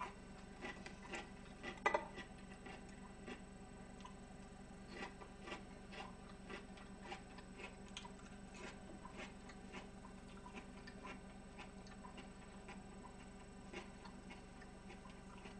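Quiet chewing and small wet mouth clicks of someone eating vegetables close to a microphone, over a faint steady hum. A couple of sharper clicks come about two seconds in.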